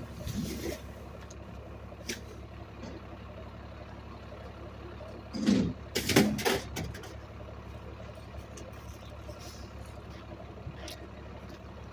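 Garbage truck engine running steadily, with a loud clatter of knocks and thumps about five and a half to seven seconds in.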